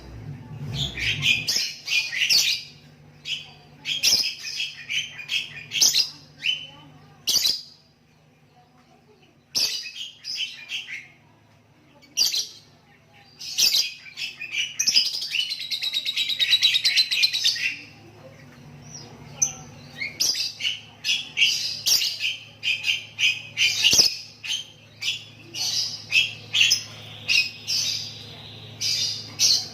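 Lovebird chattering in quick bursts of high chirps, with one long unbroken trill of about three seconds near the middle.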